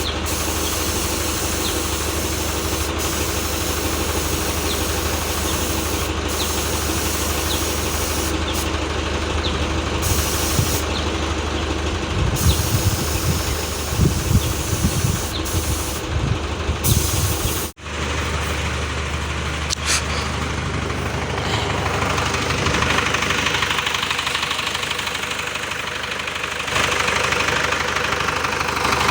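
An engine running steadily, broken once by a sudden cut about two-thirds of the way in.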